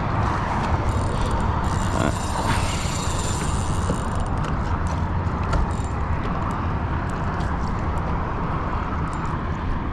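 Steady low rumbling noise throughout, with a faint high whine in the first few seconds.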